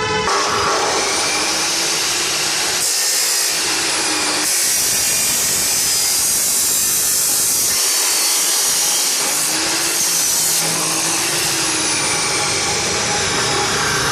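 Maktec MT241 355 mm abrasive cut-off saw running at full speed and grinding through metal stock, a loud, steady, harsh hiss.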